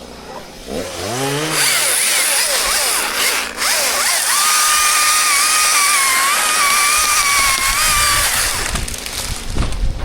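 Chainsaw engine revving up, then running at full throttle for several seconds, easing off briefly about three and a half seconds in. It stops near the end, followed by a few low thuds.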